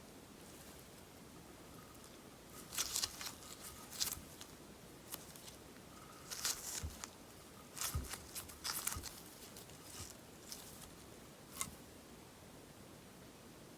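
Sponge slime being worked, giving clusters of small sharp pops and crackles, with quiet gaps between the clusters.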